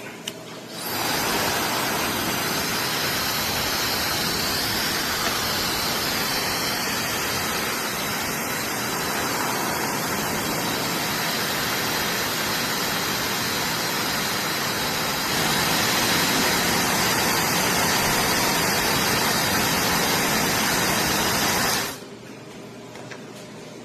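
High-speed hair dryer running, a steady rush of air that starts about a second in, steps up a little louder partway through and cuts off suddenly near the end.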